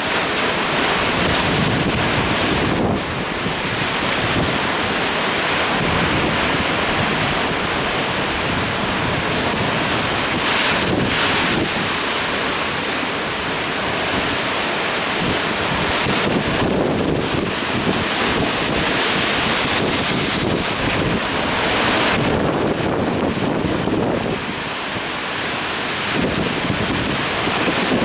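Heavy typhoon swell breaking and surging on a rocky coast: a loud, continuous wash of surf that swells and eases every few seconds, with wind buffeting the microphone.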